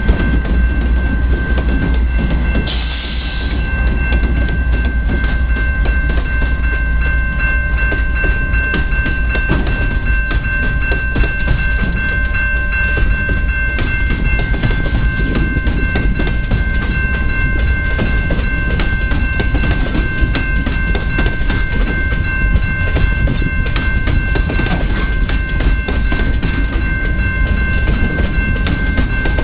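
Diesel freight train rolling past close by: the trailing locomotives and then a long string of boxcars rumble and clatter steadily over the rails. A steady high whine sits on top throughout.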